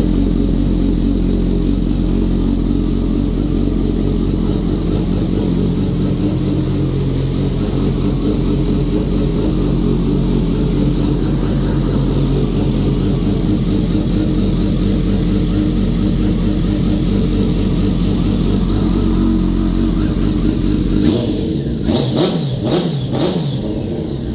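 Kawasaki ZX-10R inline-four engine idling steadily, then revved in a few quick throttle blips near the end. The bike is running again after a new ECU cured its crank-no-start fault with no fuel prime.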